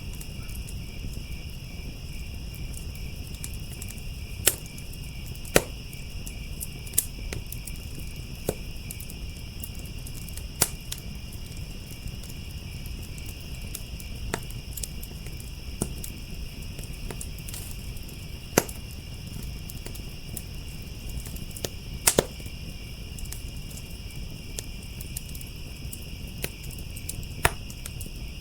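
Steady chorus of crickets chirping, with a wood fire in a fire pit giving sharp, scattered pops and crackles at uneven intervals, over a low steady rumble.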